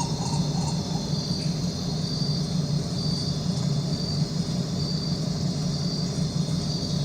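A steady low hum, with a cricket chirping high and short about once a second.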